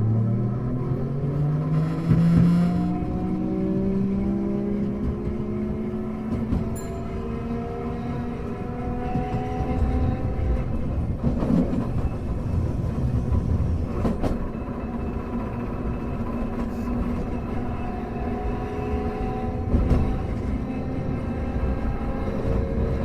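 Hankai Tramway tram car No. 351 running: its motors and gears whine, rising in pitch as the car speeds up over the first few seconds and then holding steady, over a constant low rumble of wheels on rail. A few separate knocks come from the wheels crossing rail joints, and the whine climbs again near the end.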